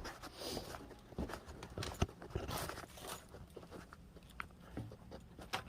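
Faint scattered crunching, rustling and small knocks of someone moving about and handling things.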